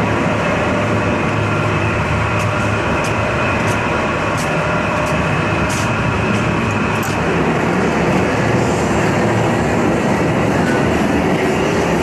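Loud, steady mechanical din of a boat factory's shop floor, with a low hum and a few light clicks in the first half.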